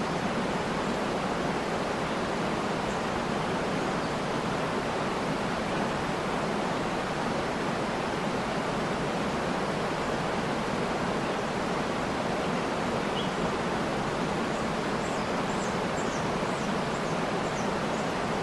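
Waterfall's steady, even rush of falling water. A few faint, high bird chirps come through near the end.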